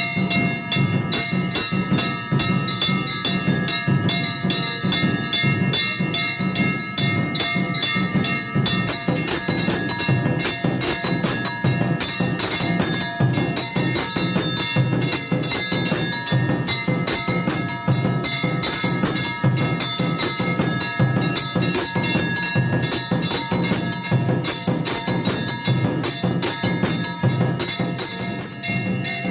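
Temple aarti bells ringing rapidly and without pause, their many tones hanging over one another, with percussion beating underneath.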